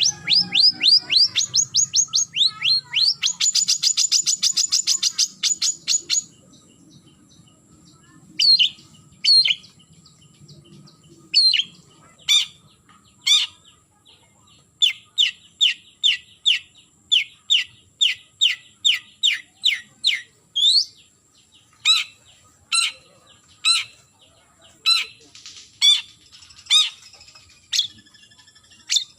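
Long-tailed shrike (cendet) calling to challenge a rival: a fast rattle of sharp, high repeated notes for the first six seconds, then scattered single notes and runs of short down-slurred chips about three a second.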